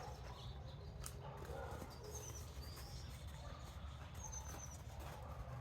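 A few faint, high, short chirps from small birds over a steady low rumble, with a single light click about a second in.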